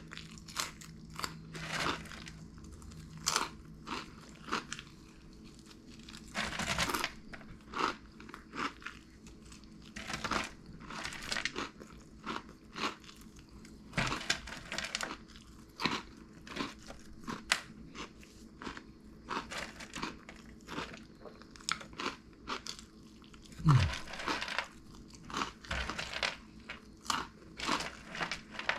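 Crunchy Cheetos being chewed close to the microphone: a long run of sharp, irregular crunches, with a couple of longer crackly stretches.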